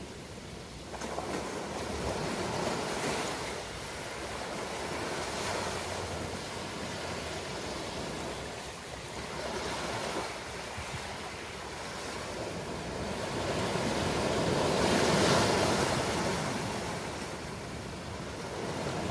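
Ocean surf: waves breaking and washing ashore in a continuous rush, swelling and easing every few seconds, the biggest wave about three-quarters of the way through.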